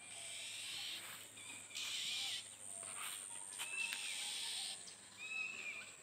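Birds calling: short arched chirps repeating every second or so, over stretches of hissing noise and a few soft clicks.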